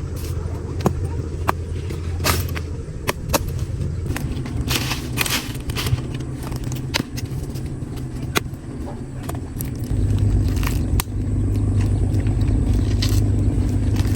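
Scattered sharp metallic clicks and clinks, like small metal parts being handled, over a steady low rumble that gets louder about ten seconds in.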